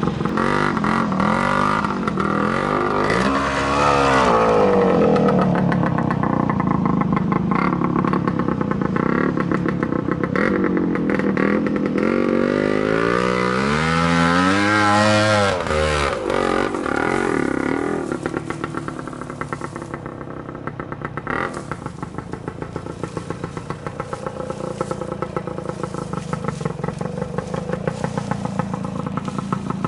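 Trials motorcycle engine being ridden, the revs swinging up and down with two bigger surges a few seconds in and around halfway. For the last third it drops to a lower, even putter near idle.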